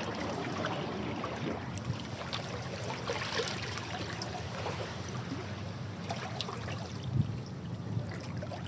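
Sea waves washing over rocks: a steady wash of water with small splashes and trickles running off, and a slightly louder splash about seven seconds in.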